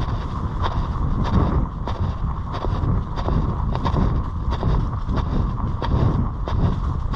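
Wind buffeting the camera microphone in a steady low rumble, with frequent short clicks and knocks running over it.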